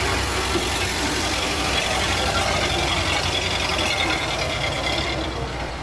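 A vehicle engine idling steadily, a constant low rumble under broad background noise.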